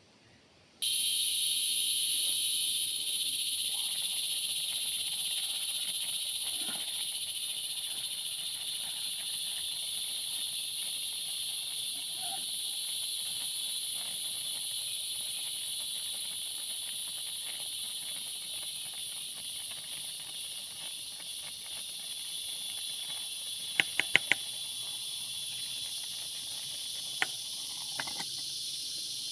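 Steady, high-pitched forest insect chorus. It starts abruptly about a second in, after near silence. Near the end a few sharp clicks sound, several in quick succession, then one or two more.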